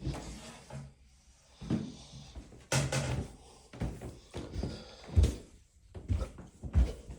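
A string of irregular soft thumps and knocks, about ten of them, the loudest a little past the middle.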